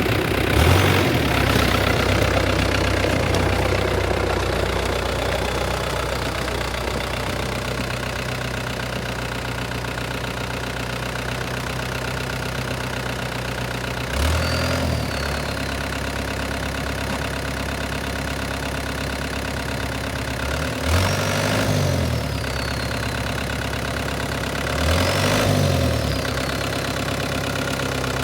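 Farm tractor engine running steadily. Its speed dips and picks back up briefly four times: right at the start, about halfway through, and twice near the end.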